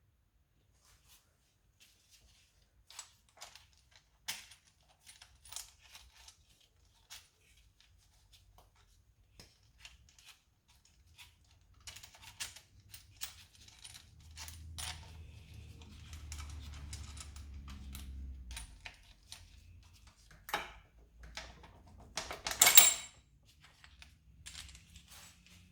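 Small metal parts and hand tools clinking and tapping, scattered light clicks with a low hum for a few seconds in the middle and a louder burst of metallic clatter near the end.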